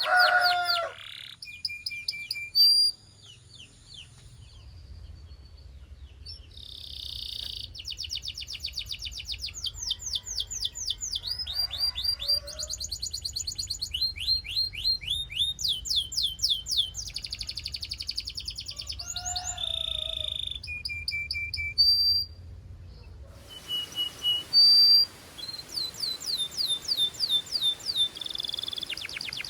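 A domestic canary singing a long song of fast trills and rolls: runs of rapidly repeated notes, some sweeping down in pitch, in phrases with short breaks.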